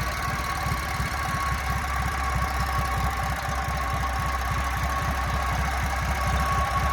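A 1956 JAP Model 55 stationary engine running on TVO and driving a 5 kW generator, ticking over with an even beat of about seven firing strokes a second and a steady hum above it.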